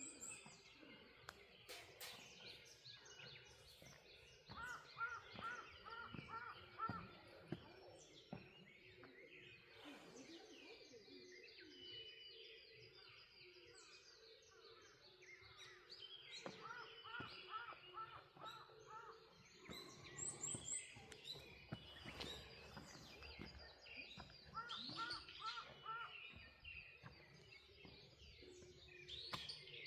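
Faint morning birdsong with several birds calling. One bird repeats a phrase of about six quick, even notes three times, and higher chirps come and go between its phrases.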